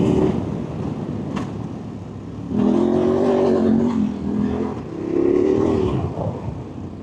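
A vehicle engine revving up in two pulls, the first about two and a half seconds in and held for over a second, the second shorter around five seconds, over a steady rumble.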